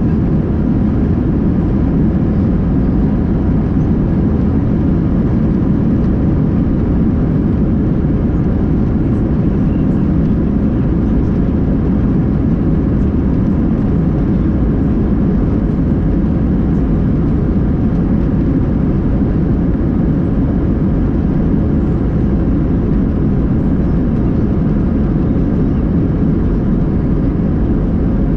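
Steady, loud engine and airflow noise inside the cabin of an Airbus A321-200, heard from a window seat, with its jet engines at high thrust for takeoff.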